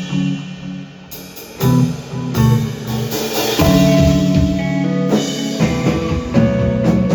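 A live band playing: sustained guitar chords over a drum kit, with hits that mark the beat.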